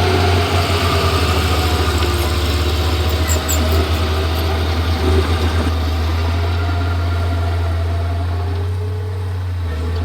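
Komatsu D31P bulldozer's diesel engine running with a strong low hum that pulses quickly for the first few seconds, then evens out. A few sharp metallic clicks come about three seconds in.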